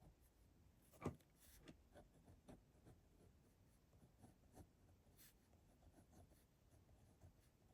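Faint strokes of a drawing tool on Moleskine sketchbook paper: short scratchy marks, with a sharper tap about a second in.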